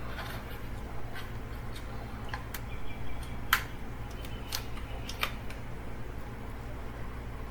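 Double-sided adhesive tape being picked and peeled off the edge of a glass touchscreen digitizer: scattered light clicks and ticks, the sharpest about three and a half seconds in, over a steady low hum.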